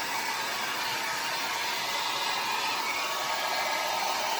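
Handheld hair dryer running steadily, a continuous rushing blow with a hum-like band in the middle of its sound.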